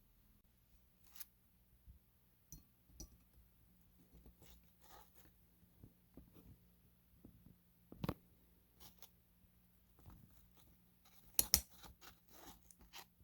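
Small plastic detail parts of an HO-scale model locomotive's trucks being worked loose and handled: scattered light clicks, taps and scrapes, with a sharper click about eight seconds in and a quick cluster of clicks near the end.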